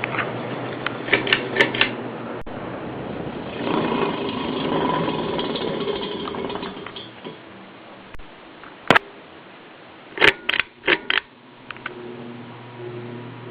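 Ceiling fan running with a steady hum and a rushing sound that swells for a few seconds in the middle. A handful of sharp clicks come about two-thirds of the way through.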